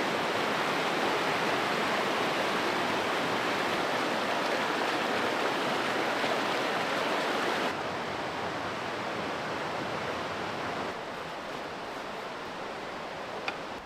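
Rushing water of a river or stream running over rapids, a steady even rush that steps down in level about halfway through and again a few seconds later. A single small click near the end.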